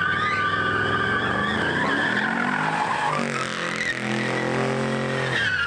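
A car doing a burnout: tyres squeal in a steady high screech while the engine runs hard, its pitch climbing through the second half. The squeal glides down near the end.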